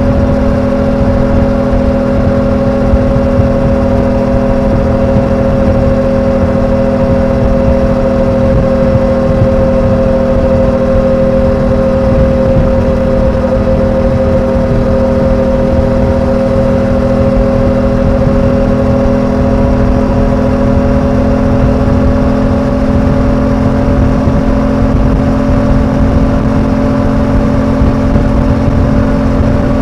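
Suzuki V-Strom 800DE's 776 cc parallel-twin engine running steadily at cruising speed, its pitch easing slightly and then rising a little towards the end.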